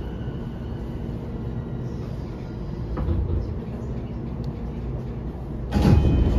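Inside a JR East E233-5000 series electric train car standing at a platform: a steady low hum, then near the end a sudden loud burst of noise with ringing tones as the doors are released to open.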